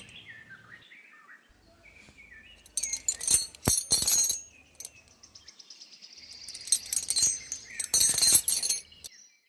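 Small birds chirping in short notes, then two bursts of high, jingly rattling, about three seconds in and again about seven seconds in.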